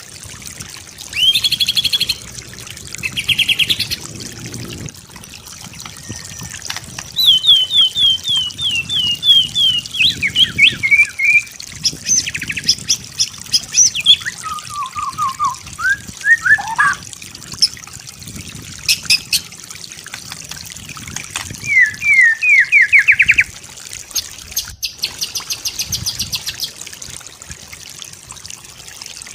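White-rumped shama singing a varied song. Separate short phrases of fast repeated notes, quick downward slurs and trills follow each other with brief pauses between them.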